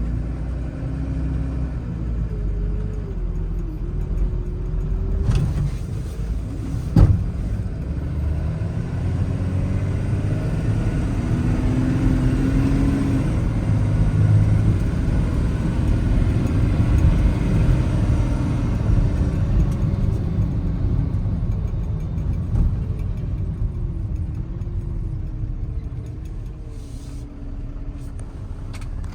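A Ram 5500 truck's Cummins 6.7 L inline-six diesel running while driving, its pitch rising and falling gently with speed. There is one sharp knock about seven seconds in.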